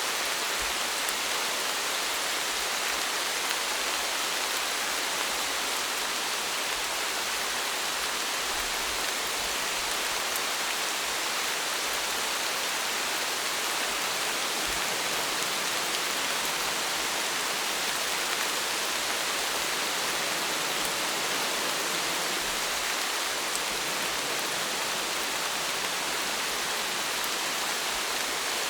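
Steady rain falling, an even hiss with faint scattered drop ticks that stays the same throughout.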